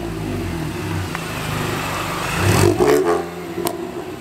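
A car engine running steadily, swelling louder about two and a half seconds in.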